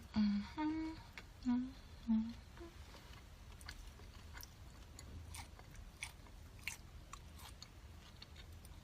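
Close-up mouth sounds of a person chewing a fried sesame ball (glutinous rice ball with bean-paste filling), with scattered wet clicks. In the first couple of seconds, a few short hummed vocal sounds come between bites.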